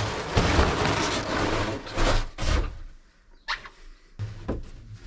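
Objects being handled and moved around in the cabin of a small fibreglass sailboat: a dense rustling and scraping, then several separate knocks and clunks with short quiet gaps between them.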